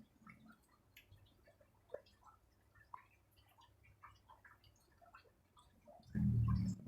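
Water dripping into a water tank: scattered single drops plinking at different pitches, with faint chewing. About six seconds in a loud low hum sets in.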